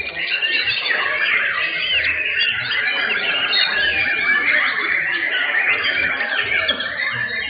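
Many caged songbirds singing at once: a dense, continuous chorus of overlapping whistles, trills and chirps.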